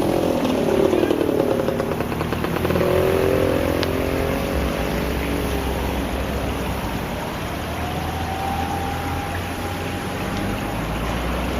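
A motor vehicle's engine running, its pitch sweeping up and then falling away twice in the first few seconds as it revs or passes, over steady outdoor noise.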